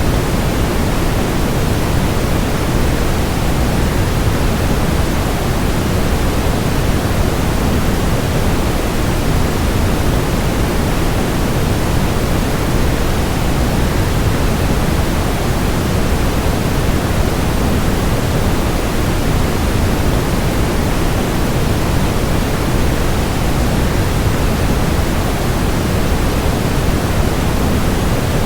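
Waterfall rushing in a steady, unchanging roar of noise, heaviest in the low end, with no distinct splashes or other events.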